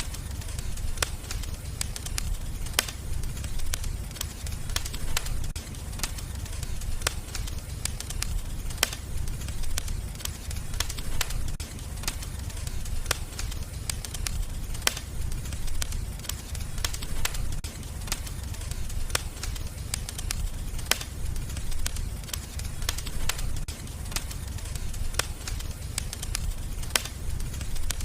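Fireplace fire crackling: frequent sharp crackles and pops over a steady low rumble.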